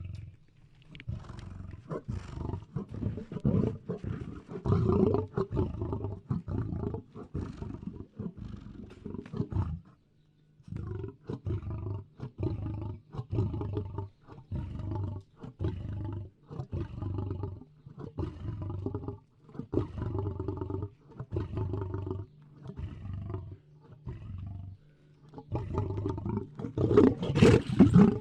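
African lion (Panthera leo) roaring in long repeated series, each call a run of deep pulsed grunts. There is a short pause about ten seconds in, and the loudest roars come near the end.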